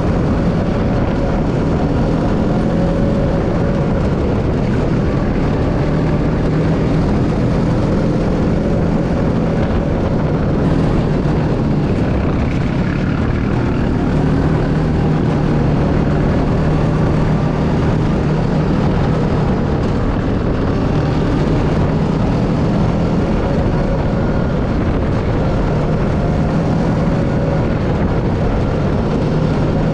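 Steady engine drone with a constant low hum and no revving, unchanging throughout.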